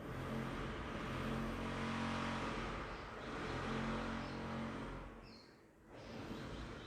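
A motor vehicle's engine passing by, its steady hum rising and falling, then fading away about five seconds in.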